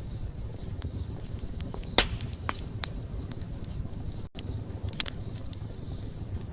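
Wood campfire crackling: sharp, irregular pops and snaps, the loudest about two seconds in, over a steady low rumble of the flames. The sound drops out for a split second just past the middle.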